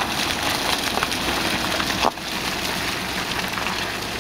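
Steady hiss of rain and tyres on a wet gravel road as a Volkswagen Transporter minivan pulls in, with scattered small ticks; the sound drops suddenly about two seconds in.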